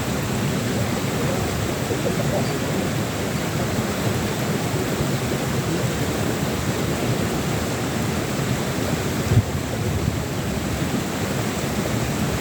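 Steady rushing noise of wind buffeting the microphone, with a single short thump about nine seconds in.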